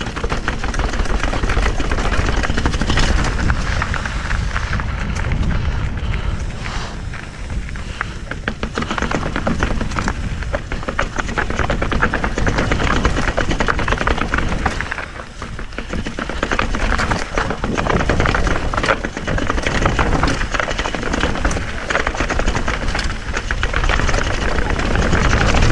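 Mountain bike riding a rough trail: wind buffeting the microphone over a dense rattle of the tyres and bike parts jolting on rocks, easing briefly about halfway through.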